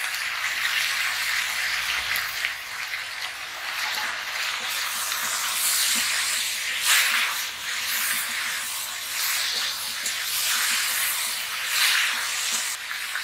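Vegetables coated with wet ground spice paste sizzling in a hot steel wok, with a metal spatula stirring and scraping through them; the hiss swells with a few louder stirring strokes.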